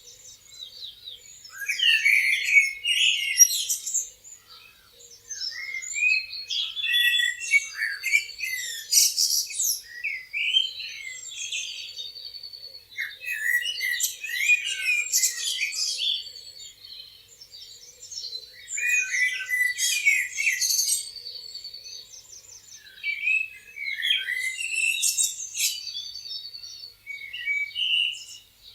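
Several songbirds chirping and singing over one another in bursts of a few seconds, each followed by a short lull.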